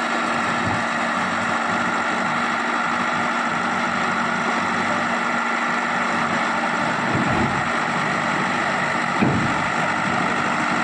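Engine of a heavy vehicle idling steadily, with a single short knock about nine seconds in.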